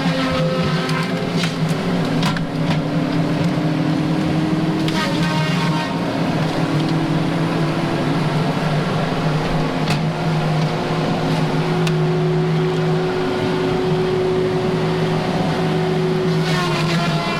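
Tigercat 718E feller buncher running steadily, heard from inside its cab, with a higher whine rising and falling a few times and a few short knocks.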